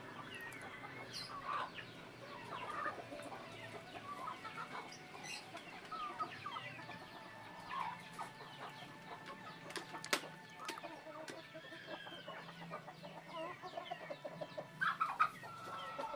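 Many short, overlapping bird-like calls, irregular and continuous, with a single sharp click about ten seconds in.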